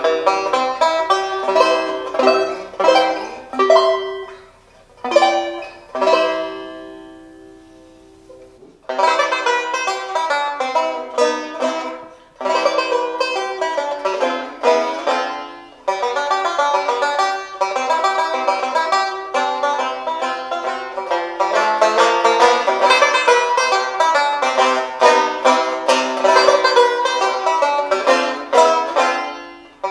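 1929 Gibson TB-4 four-string tenor banjo played solo, a quick picked and strummed melody. About five seconds in, a chord is left to ring and fade for about three seconds before the playing starts again.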